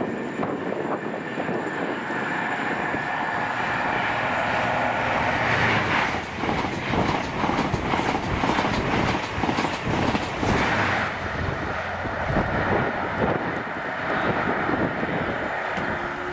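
High-speed passenger train approaching and rushing past close by, its wheels clattering rapidly on the rails. The noise builds over the first few seconds and stays loud through most of the pass.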